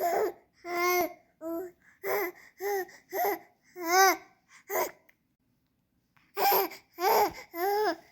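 A baby babbling in a string of short pitched squeals and coos that rise and fall, with a pause of a second or so midway. The mother takes all the noise to have been about a fart.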